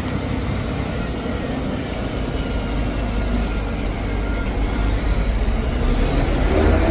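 CNG tractor truck's heavy engine running with a steady low rumble, growing a little louder near the end, as the truck is driven for loading.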